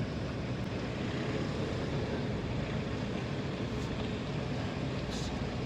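Steady running noise of a vehicle driving on a road, an even mix of engine, tyre and wind sound with no distinct knocks or changes.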